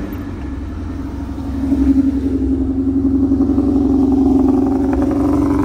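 2011 Ford Mustang's engine idling steadily just after being started, getting louder about two seconds in.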